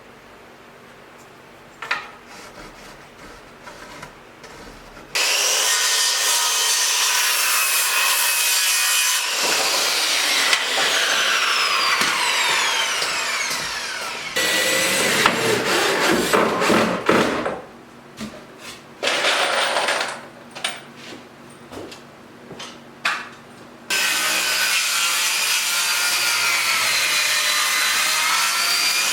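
Electric power saw cutting wooden framing lumber in several separate cuts. It starts abruptly about five seconds in and runs steadily for several seconds at a time with a wavering high whine. Between cuts, near the middle, come shorter bursts and knocks of wood being handled.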